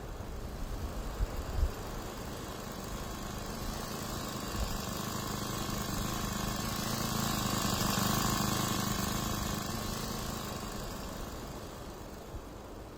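Propeller-driven motorbike passing by, its engine and propeller growing louder to a peak about eight seconds in and then fading away. A few low thumps come in the first two seconds.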